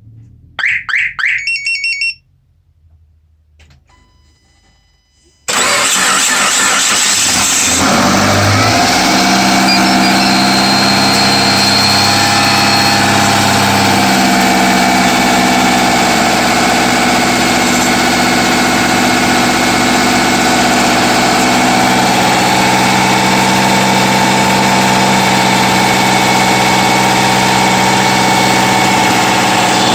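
A few short electronic beeps, then a quiet pause. About five seconds in, a Subaru Forester SG5's 2.0-litre flat-four boxer engine cranks and catches on a cold start at −15 °C, with freshly changed oil. It settles into a steady fast idle, and the owner suspects a knock from the fourth cylinder.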